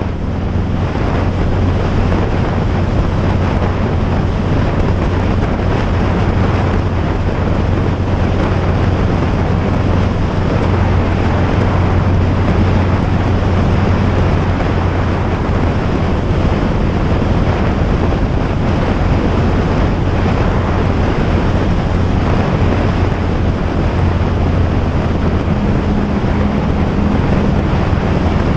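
Loud, steady wind rush on the microphone of a moving bike, over a constant low drone; a slightly higher hum joins near the end.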